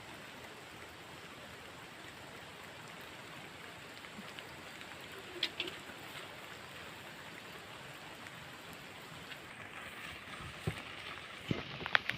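Steady rain falling, an even hiss, with a few sharp knocks or splashes near the end.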